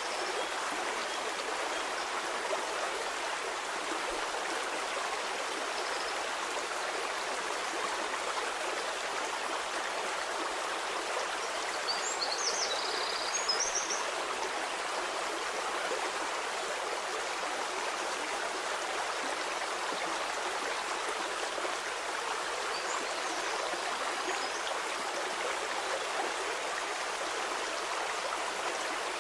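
Stream water flowing steadily, an even rushing hiss with little bass. A few brief high chirps sound about halfway through.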